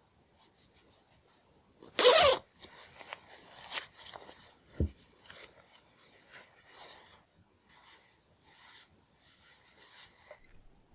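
Handling noises: cloth rubbing and rustling, with one loud, sharp swish about two seconds in and a dull low thump near five seconds.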